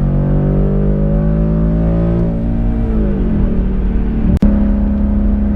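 Ford Mustang GT's 5.0-litre V8 through an MBRP race cat-back exhaust, pulling hard with its pitch rising for about two seconds, then falling away and settling into a steady drone. A short sharp click breaks the sound about four seconds in.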